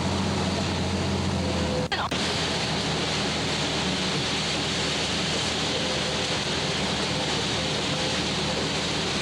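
Steady rushing noise of hurricane-force wind and surf. A low vehicle-engine hum underneath ends at a brief break in the recording about two seconds in.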